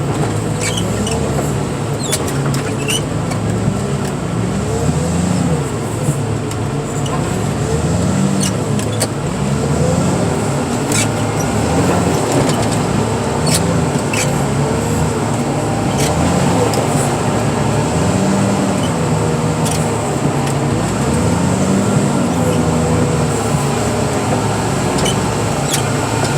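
Heavy machinery engine working steadily, its pitch rising and falling in a regular rhythm about every two seconds, with scattered sharp ticks over it.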